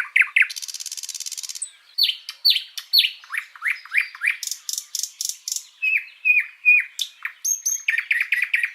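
Nightingale singing: varied phrases of repeated down-sweeping whistled notes, a fast buzzing rattle near the start and a rapid trill of repeated notes near the end.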